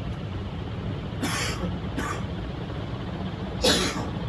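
Two sudden outbursts from a person suffering allergies, the second the loudest, over the steady low hum of a 56-inch Envirofan Silverline ceiling fan running at top speed.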